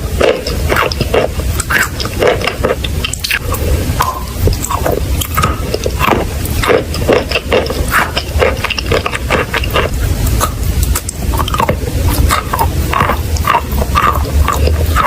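Close-up crunching and crackling: many small crackles in quick, uneven succession, over a low rumble.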